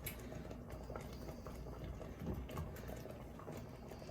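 Thick peanut butter and coconut milk sauce simmering in a pot, its bubbles popping irregularly.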